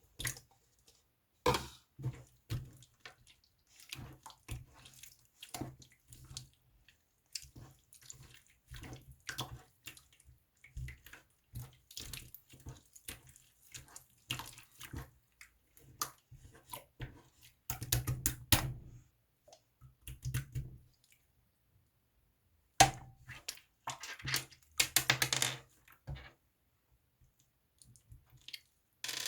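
Fruit slime being squished and pressed by hand, making wet, sticky squelches and crackles in irregular bursts with short pauses between them.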